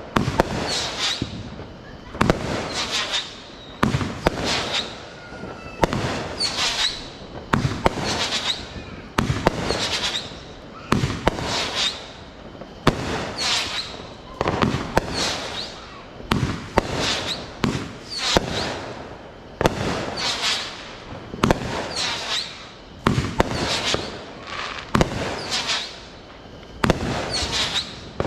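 Consumer fireworks going off in a steady sequence, a shot about every two seconds, each a sharp bang that trails off into a second or so of hiss and crackle.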